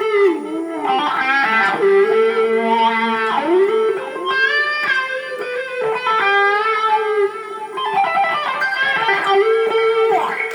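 Electric guitar lead played through an overdrive pedal with a wah pedal: a string of sustained distorted notes and bends whose tone sweeps up and down, with a short break about halfway through.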